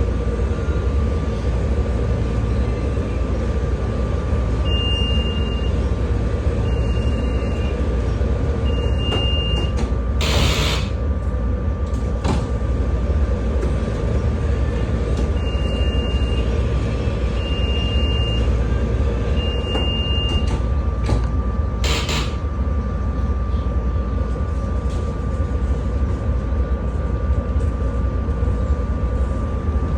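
SEPTA Regional Rail train's steady low rumble with a constant hum. A high electronic beep sounds three times, about two seconds apart, and the same three beeps repeat about ten seconds later; two sharp clicks stand out near the middle and about two-thirds of the way through.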